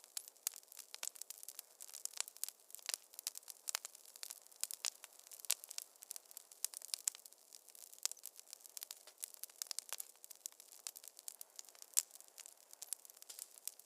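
Wood fire crackling in a fireplace: a dense, irregular run of sharp pops and snaps over a faint hiss, with one louder pop about twelve seconds in.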